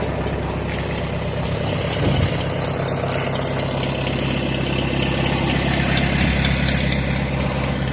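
John Deere 3010's four-cylinder diesel engine idling steadily at about 1,000 rpm shortly after a cold start. It has an added noise from the fan/alternator belt, which is coming apart, with a loose piece of it hitting the sheet metal.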